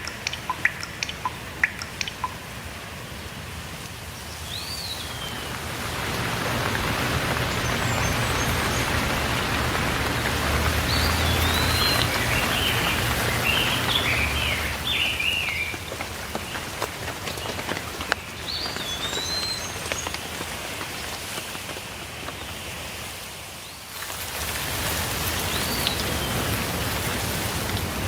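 Steady rainfall with a few distinct drips at first, growing heavier about five seconds in. Birds give short chirping calls now and then, a quick cluster of them in the middle. The rain drops away suddenly near the end, then comes straight back.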